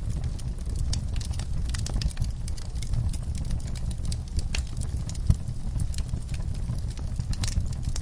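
Wood fire burning in a fireplace: a steady low rumble under irregular crackles and pops, the sharpest pop a little past five seconds in.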